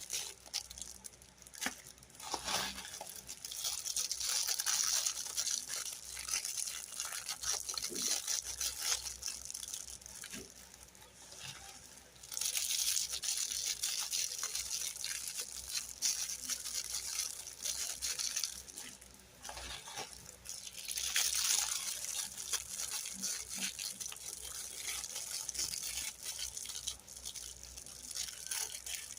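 Crinkling and rustling of plastic packaging as toys are handled, with small clicks and taps of plastic pieces. It swells in several louder spells.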